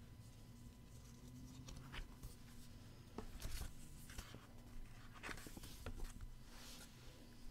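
A fold-out paper poster being unfolded and handled: faint paper rustling, with a few light taps and clicks.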